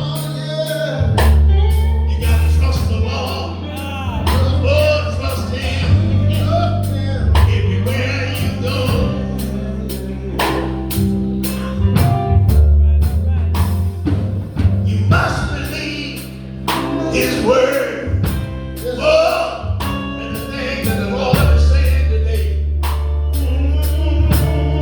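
Live gospel band playing: a drum kit keeps a steady beat under sustained bass notes, keyboard and guitar, with voices singing over it.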